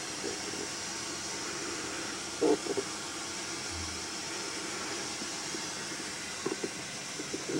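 Steady hiss, with a brief louder sound about two and a half seconds in and a few faint short sounds near the end.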